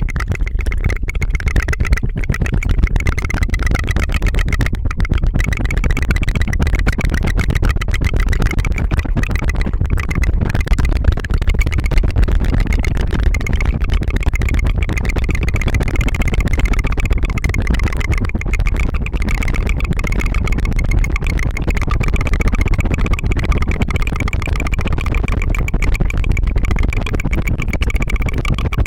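Rapid tongue fluttering close to the microphone: a steady, fast, buzzing flutter with no breaks.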